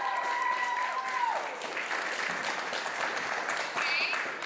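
Crowd applauding and cheering, with one long held whoop through the first second or so.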